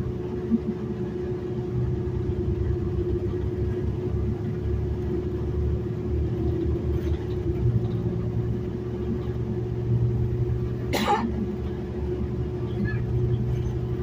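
City transit bus in motion heard from inside the cabin: a steady low engine and road rumble with a constant hum. About eleven seconds in there is one brief sharp noise.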